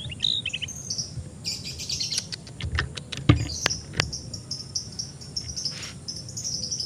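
White-rumped shama (murai batu) giving runs of short, high chirping notes, with several sharp clicks about midway.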